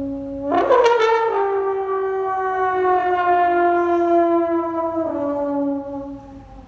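A long, sustained horn-like note. About half a second in it jumps sharply up in pitch, then slowly slides down. It drops back to the lower note about five seconds in and fades near the end.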